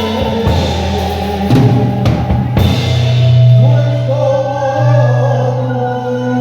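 Church worship band playing with singing: long held keyboard and bass notes under drums, with a couple of cymbal strokes about two seconds in.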